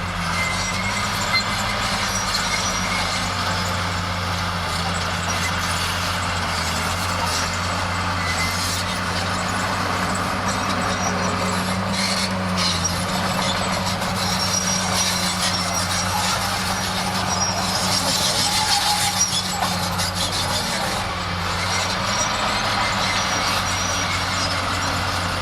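Bulldozer's diesel engine running steadily, with a high squeal from its steel tracks that is strongest about three quarters of the way through.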